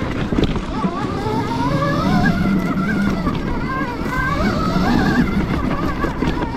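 Electric dirt bike's motor whining, its pitch rising and falling as the throttle is worked, over rough wind and tyre noise.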